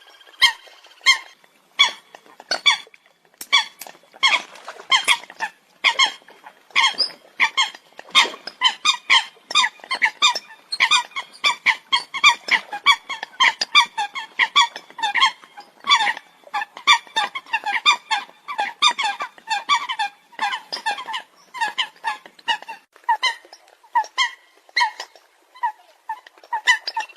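Eurasian coots calling: short calls repeated in a rapid, irregular series, several a second, at times overlapping.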